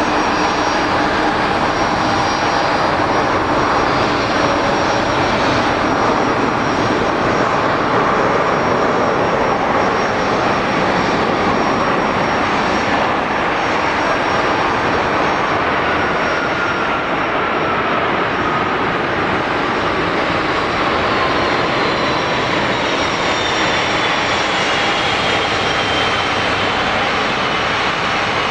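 Boeing 747-400F freighter's four jet engines, loud and steady. A whine in the engine noise slowly falls in pitch through the second half.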